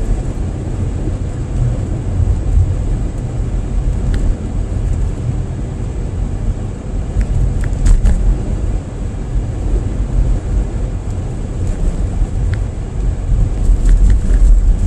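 Road noise heard inside a moving car on a sanded, salted winter road: a steady low rumble of tyres and engine, with a few light ticks.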